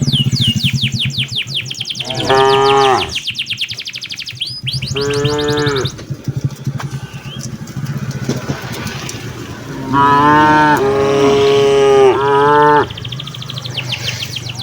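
Cattle mooing repeatedly: two separate moos, then three moos in quick succession later on.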